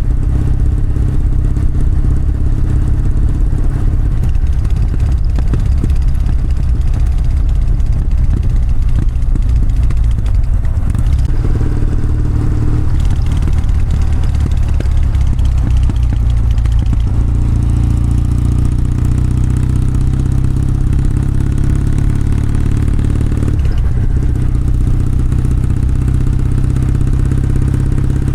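Kawasaki W650 parallel-twin engine and exhaust running under way, a steady loud note whose pitch shifts a few times as the throttle and gears change.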